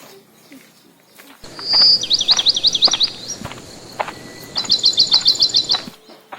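A songbird singing loudly: a held high whistle, a run of quick down-swept notes, then a rapid string of about ten short high chirps.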